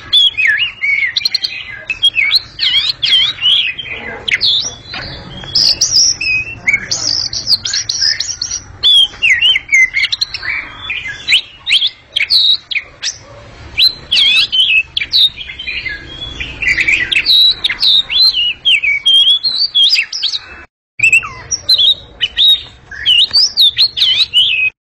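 Oriental magpie-robin (kacer) singing loudly: a fast, unbroken run of varied whistles and chattering notes, with a brief break about 21 seconds in.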